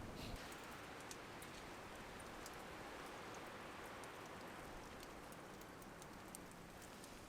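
Campfire crackling faintly: scattered small ticks and pops over a soft, steady hiss.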